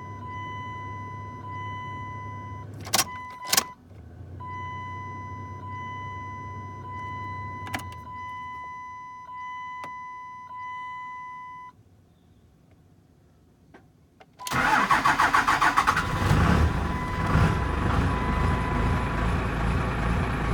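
12-valve Cummins 5.9 L inline-six diesel in a 1998 Dodge Ram, cold-started in single-digit temperatures without the block heater plugged in. For about twelve seconds a steady electronic tone sounds with a few sharp clicks. After a short quiet spell the starter cranks, and about fourteen seconds in the engine catches and keeps running loudly.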